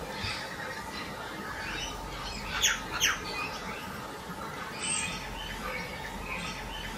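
Birds calling, with two loud, quick downward-sweeping calls close together about two and a half seconds in, amid fainter scattered chirps.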